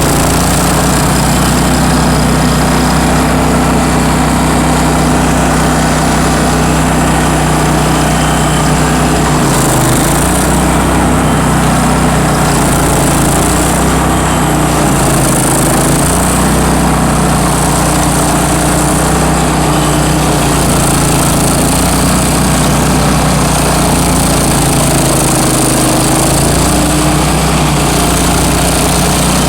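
Bandit ZT1844 stump grinder's engine running loud and steady, its pitch dipping briefly and recovering a few times.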